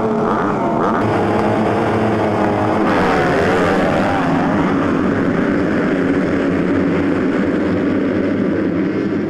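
Several motocross bikes racing together, their engines revving hard with the pitch rising and falling as the throttle opens and closes.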